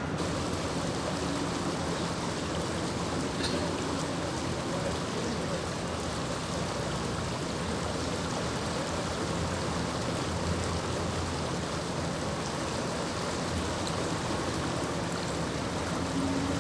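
Steady rush of water flowing from a broken water main across the flooded street.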